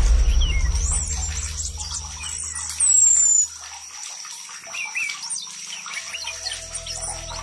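Songbirds chirping and whistling, including a few high falling whistles, over a steady rush of running water.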